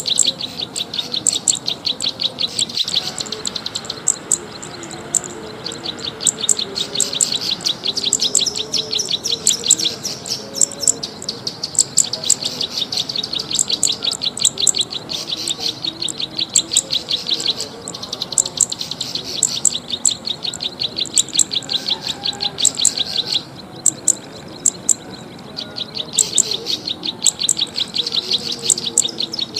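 Recorded small songbird lure calls: rapid, high ticking chirps repeated many times a second in long runs, with a short break a little past halfway and another about three-quarters through.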